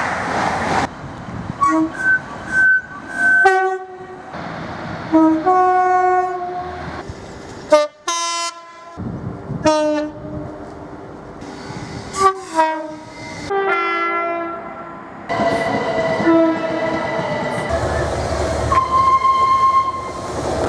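A run of train horn blasts from several different trains, one after another: short and longer horn notes at different pitches, some sounded as two notes in turn, with the rumble of the moving trains between them. The sound changes abruptly several times as one recording gives way to the next.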